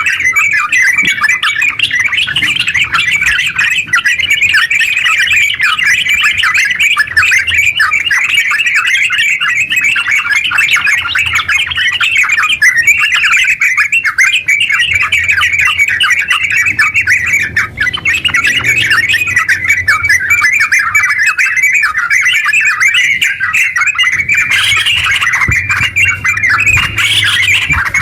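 Yellow-vented bulbul singing its long 'ngerpel' song: a rapid, unbroken stream of chattering, bubbling notes with no pauses.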